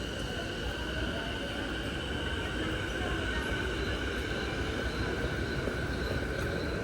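Electric commuter train running at the station platform: a steady rumble with the whine of its motors in several held tones, one of them slowly rising in pitch.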